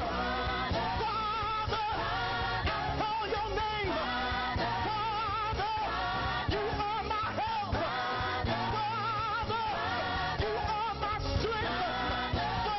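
Live gospel praise-and-worship music: voices singing with a wavering vibrato over a band with a steady bass line.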